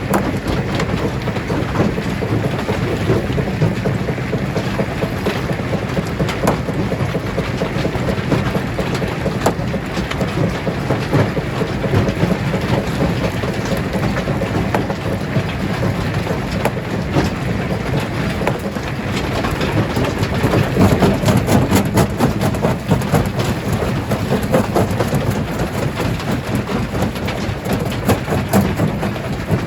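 Stone crusher running under load: a steady heavy machine drone under a constant dense clatter and cracking of rocks, louder for a few seconds about twenty seconds in.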